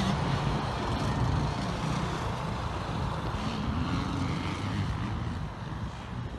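Motocross bike engine running as it is ridden, the revs rising and falling, getting quieter near the end.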